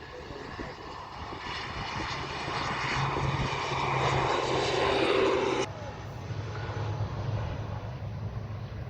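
Jet airliner engines, growing steadily louder for about five seconds, then cut off suddenly; a quieter low steady rumble remains.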